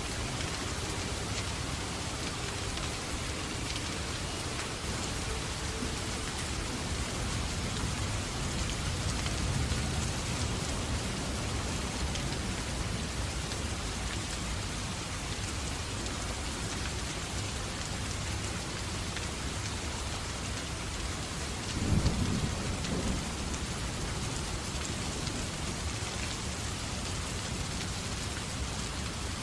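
Steady heavy rain falling on a surface, an even hiss. About two-thirds of the way in, a short low rumble rises briefly above it.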